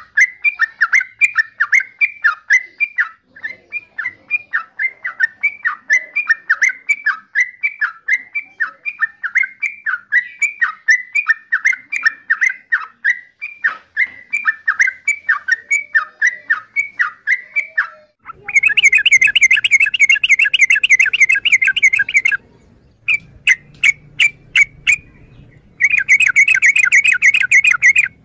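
Yellow-vented bulbul (trucukan) calling: a long run of short repeated notes, about three a second, each dropping in pitch. About two-thirds of the way in it switches to a faster, louder chatter, in two bursts with a short break and a few single notes between them.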